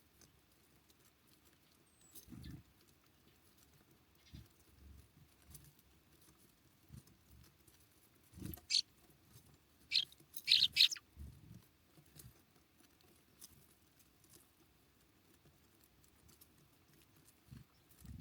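Small wild birds at a winter feeder: scattered soft knocks and flutters, with a few short high call notes that come in a quick cluster about ten to eleven seconds in.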